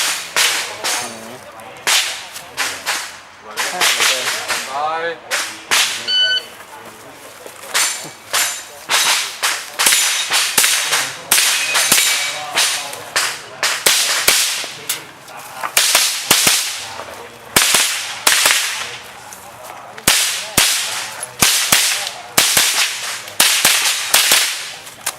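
A .22 rimfire mini-rifle fired in fast strings of sharp cracks, several shots close together in each string, with short pauses between strings as the shooter moves between targets.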